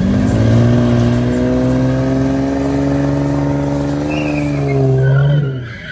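Car engine revved up and held at high revs for about five seconds, then easing off and dropping away.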